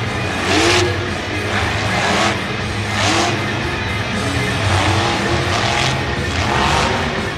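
Monster truck's supercharged V8 revving again and again, each rev a quick rise and fall in pitch, with music playing underneath.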